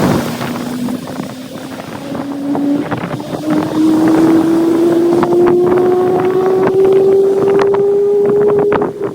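Boeing 777 freighter's GE90 jet engines running with a slowly rising whine over the roar as they spool up, growing louder about halfway through and cutting off sharply near the end. Wind buffets the microphone with crackles throughout.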